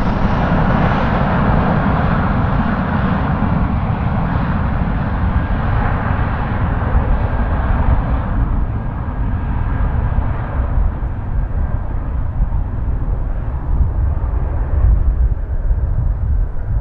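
Jet airliner's engine noise as the plane passes: a loud, even rush whose upper hiss fades from about eight seconds in, leaving a low rumble.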